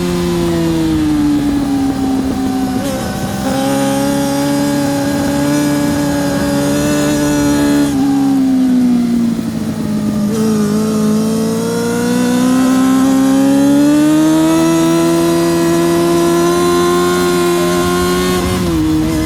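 Yamaha R6 RJ03's inline-four engine running hard at racing revs: the note falls as the bike slows about half-way through, then climbs steadily as it accelerates out, and drops suddenly near the end on an upshift.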